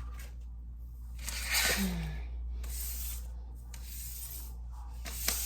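Paper banknotes rustling as a stack of cash is handled and counted, in several brushing strokes, with a sharp click near the end.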